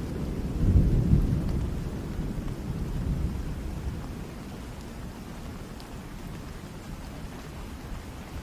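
Thunderstorm: a deep roll of thunder that peaks about a second in and dies away over the next few seconds, leaving steady rain falling.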